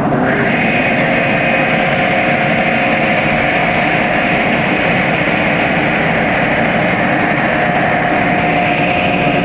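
Automatic car wash machinery running: a loud, steady rushing noise with a couple of steady tones underneath. A higher hiss comes in right at the start.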